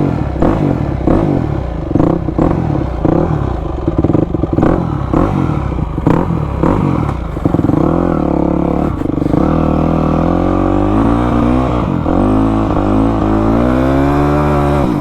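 Dirt bike engine running with clattering knocks, then from about halfway revving up and pulling away, its pitch rising and dropping back a couple of times as it gathers speed.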